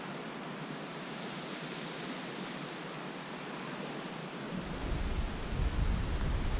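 Steady outdoor hiss of wind and lake water. About four and a half seconds in, gusts start buffeting the microphone as a low rumble and the sound gets louder.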